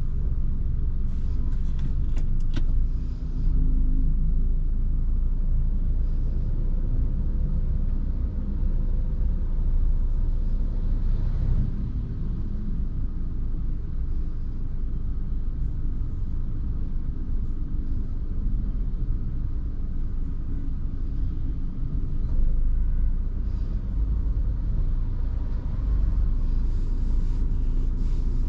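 Car driving, a steady low rumble of engine and road noise, with a few short clicks about two seconds in.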